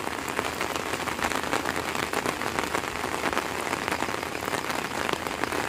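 Rain falling steadily: an even hiss dotted with many sharp ticks of single drops striking.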